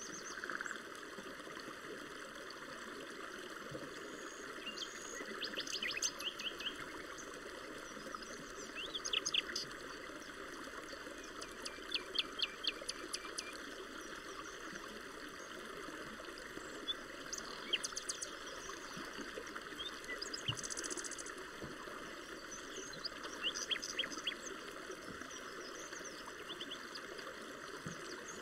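Forest ambience: small songbirds singing in about five short bouts of rapid repeated chirps, over a steady rushing hiss.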